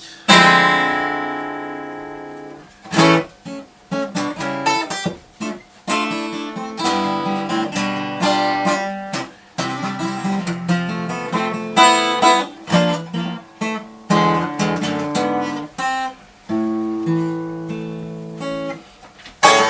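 Solo acoustic guitar. A strummed chord rings out and fades over about two seconds, then a run of picked notes and chords follows.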